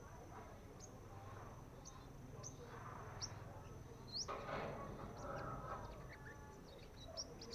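Young sunbirds practising their song: short, thin, high chirps, each a quick sweep, coming one at a time at irregular intervals. A faint steady high whine runs underneath.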